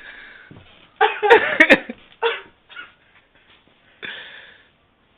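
A cat yowling in protest at being put in bathwater: a cluster of loud, wavering cries about a second in, then a shorter cry, with a few sharp knocks among them.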